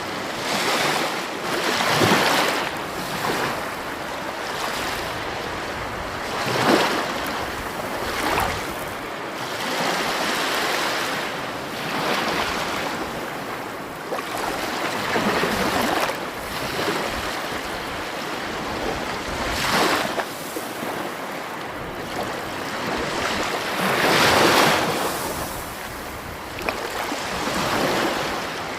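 Sea waves breaking on a shore, the wash swelling and falling again every few seconds, some surges louder than others.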